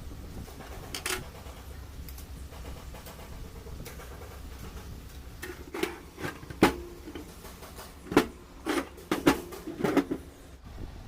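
Workshop tools knocking and clinking against engine parts: a single knock, then a quick run of sharp clanks with a brief ring, over a low steady hum.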